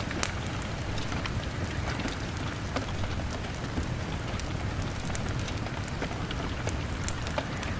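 Steady rain falling on a window, with a crackling fire's sharp pops scattered irregularly through it.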